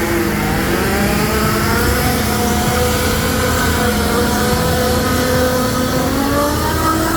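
Engine held at high revs during a burnout, its pitch sagging slightly through the middle and climbing again near the end, over a rough hiss of spinning tyres.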